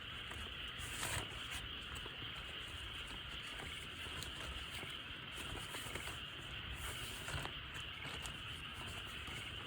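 Small wood fire crackling in a fire grill: scattered sharp pops and ticks over a steady hiss, with a louder cluster of pops about a second in.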